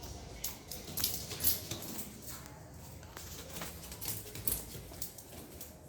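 Irregular footsteps and small knocks and rustles, a few a second, as someone walks along holding the recording phone.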